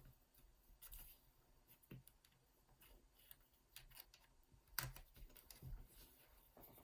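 Faint, scattered plastic clicks and scrapes of a pry pick working along a laptop's bottom cover, loosening its clips, with the sharpest click about five seconds in.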